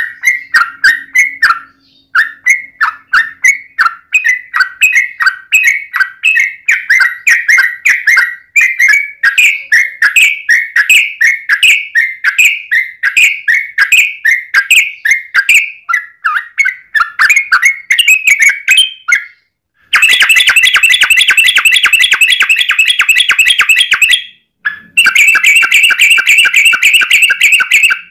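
Yellow-vented bulbul (trucukan) calling: a long run of quick chattering notes, several a second, then two loud rattling trills near the end, the rapid 'ropel' fighting call.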